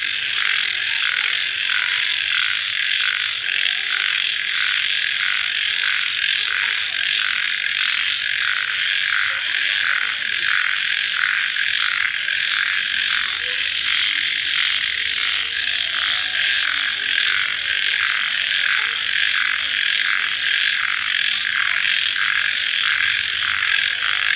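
Dense, steady night chorus of crickets calling, the massed chirping pulsing evenly a little under twice a second.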